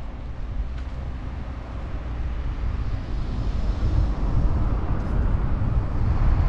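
Tokaido Shinkansen high-speed train approaching at full speed: a low rushing rumble that grows steadily louder from about two seconds in.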